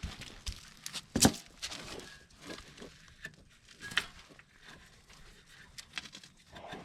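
Sharp knocks and small clatters from working the mini excavator's steel mount pins loose. The loudest knock comes a little over a second in and another at about four seconds.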